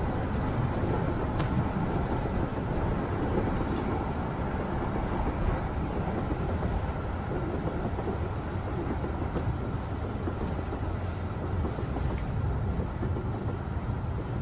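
Subway train running, heard from inside the carriage: a steady rumble with a few faint clicks.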